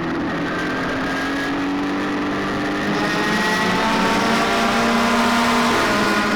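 Several midget race cars running on the track together, their engines overlapping and drifting slowly in pitch. The sound swells about halfway through as the cars come closer.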